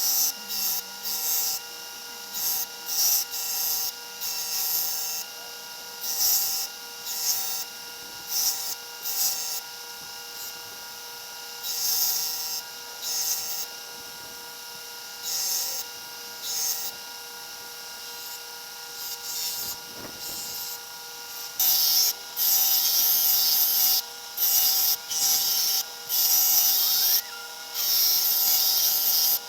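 A power grinder runs with a steady motor hum while a forged steel drawknife blade is pressed against it to grind in the bevel. The grinding comes as short hissing passes at first, then longer, louder passes from about twenty-two seconds in.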